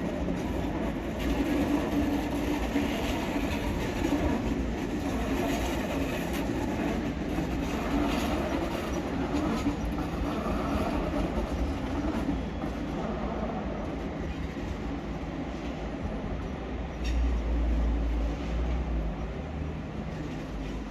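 A train running past on the track: a steady rumble of wheels on the rails with occasional clicks, and a deeper low rumble near the end.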